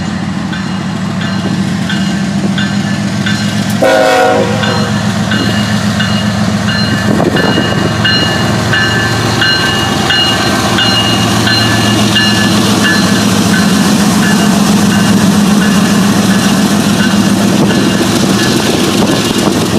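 Diesel locomotive engine running steadily with a low hum. A high ringing repeats through it, and a short horn-like blast sounds about four seconds in.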